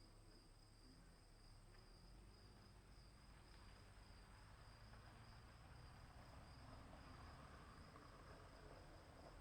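Crickets chirping faintly in a steady, continuous trill at two high pitches, over a faint low rumble.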